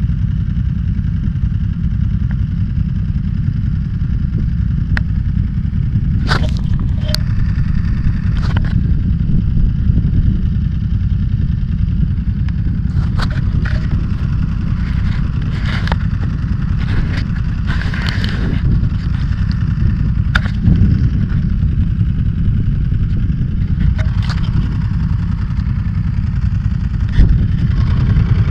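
Sportbike ridden at road speed: the engine runs steadily under heavy low wind rumble on the microphone, with scattered brief clicks.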